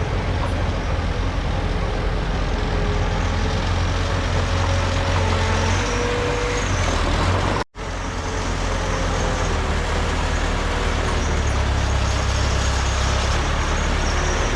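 Heavy diesel engines of earthmoving machinery, a bulldozer and dump trucks, running steadily with a deep, loud drone. The sound breaks off for an instant just past halfway, then carries on.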